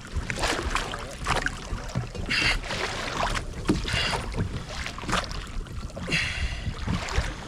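Water slapping and splashing around a kayak, with wind on the microphone, scattered knocks and a few short rasping bursts every second or two.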